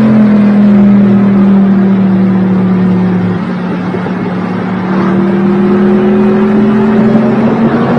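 A car engine running at high, steady revs. Its note sags a little in the middle, then climbs slowly over the second half.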